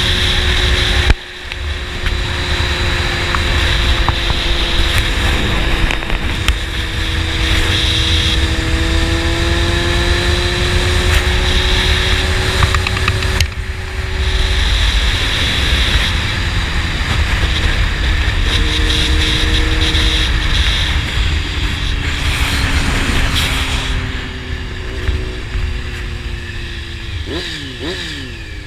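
Honda CBR600RR inline-four sport bike with a slip-on exhaust running at road speed under heavy wind rush. The engine note rises slowly, with brief cuts at gear changes about a second in and about halfway through. Near the end the bike slows and the engine note rises and falls quickly several times.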